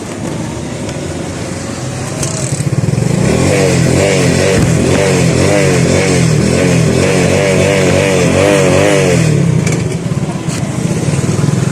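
Road vehicle engine running, growing louder about two seconds in and easing slightly near the end, with a wavering pitched whine over it through the middle.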